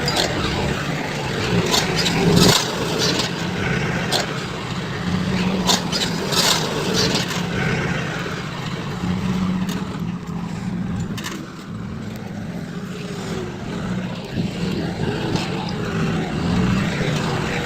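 Heavy diesel machinery running steadily, with sharp clanks and scrapes from the machine working, several of them in the first few seconds.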